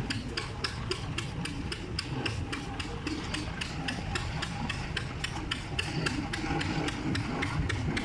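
An engine running with a steady, even knocking beat of about five knocks a second over a low rumble.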